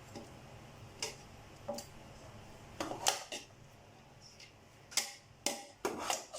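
Scattered light clinks and scrapes of a serving utensil against pot and plate as cooked rice is dished out, a handful of sharp taps about half a second to a second apart.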